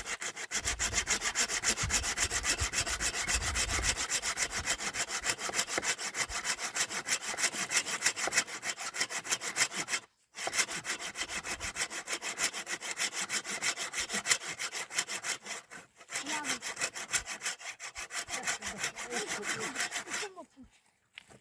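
Handsaw cutting through firewood with quick, even back-and-forth strokes, pausing briefly twice and stopping shortly before the end.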